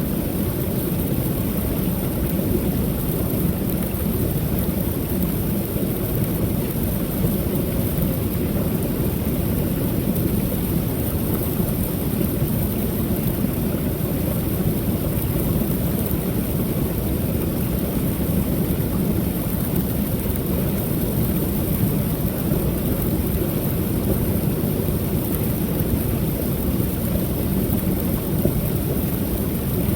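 Creek waterfall: water pouring over the falls in a low, steady rush.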